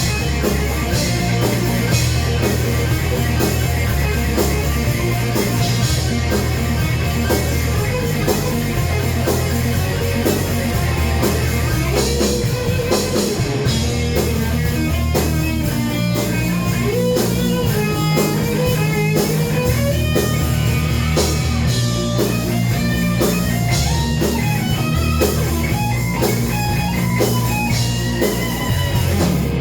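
Live rock band playing heavy metal: distorted electric guitars over bass and drum kit. From about the middle on, a lead guitar line bends and runs above the band.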